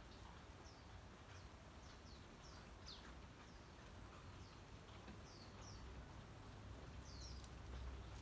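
Faint, short, high chirps of small birds, about a dozen scattered irregularly, over a low steady rumble.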